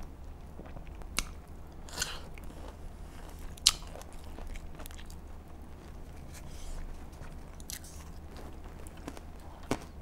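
Close-miked eating: chewing French fries and watermelon, with a handful of sharp mouth clicks and crunches. The loudest comes about three and a half seconds in. A low steady hum runs underneath.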